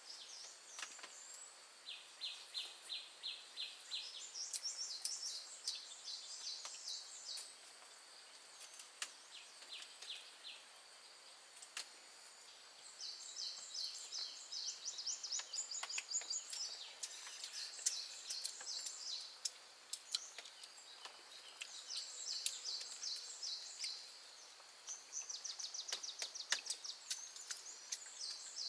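Wild creatures chirping in high-pitched trills: bursts of rapid, evenly spaced chirps, each burst a second or two long, recurring again and again, with scattered light clicks in between.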